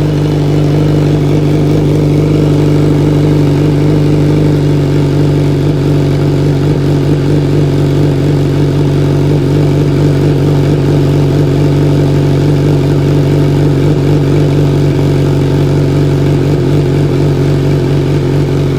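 Kawasaki Z1000's inline-four engine idling steadily through an aftermarket full exhaust system with a bomb-style muffler. It runs loud and even, with no revving.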